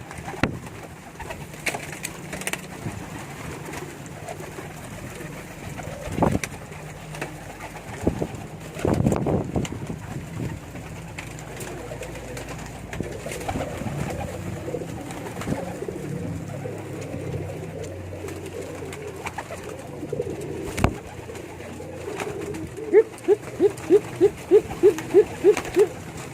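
Domestic pigeons cooing, low and repeated, with a couple of sharp knocks. Near the end comes a quick run of about ten short notes, about three a second.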